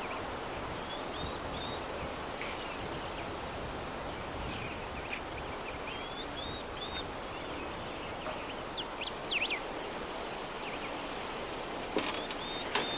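Steady soft breeze noise, with small birds chirping now and then in short high calls. Two sharp clicks sound near the end.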